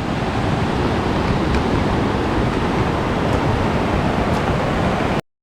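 Steady rush of falling water from the Siebenbrunnen waterfall mixed with heavy rain. It cuts off suddenly near the end.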